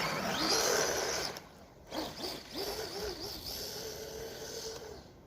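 The Rustler 4x4 RC car's 550-size 3500 kV brushless motor whines as it is throttled, rising in pitch at the start. It cuts out briefly about a second and a half in, then revs again with a wavering pitch before fading near the end.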